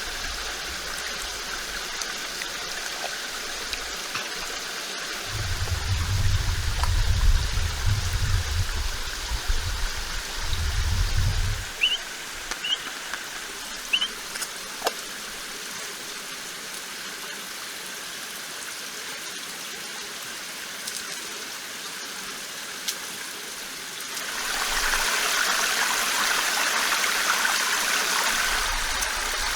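Steady rushing of a flowing stream, with a low rumble for several seconds in the middle and three short high chirps just after it. Near the end the rush of water grows louder and brighter.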